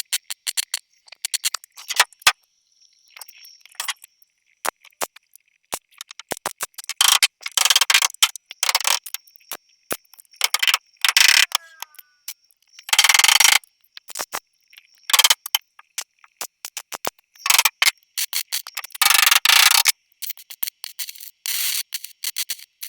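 Welder tack-welding a sheet-metal patch panel: several short crackling bursts of about half a second to a second each, among many sharp clicks and taps on the metal.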